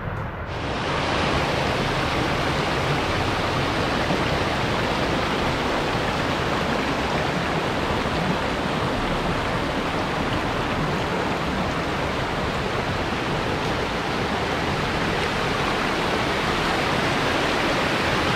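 Steady, loud rush of falling water from a waterfall. It starts about half a second in and holds even throughout.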